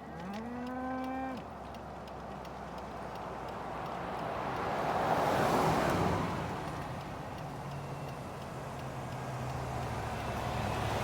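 A cow moos once, the call rising in pitch, then a vehicle passes by, its noise swelling and fading over a few seconds.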